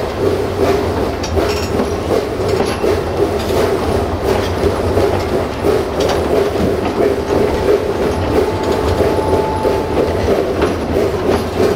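Narrow-gauge train running along the track with a steady rumble and the clickety-clack of wheels over rail joints. A faint thin squeal comes in for a few seconds after the middle.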